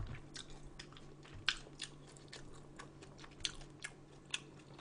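Close-miked chewing of food, with irregular crisp crunching clicks as the food is bitten and chewed.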